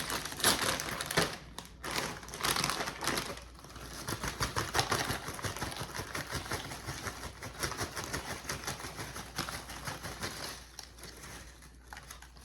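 Close-up crinkling and rapid clicking of food packaging being handled, dense and irregular throughout, with a few louder crackles near the start.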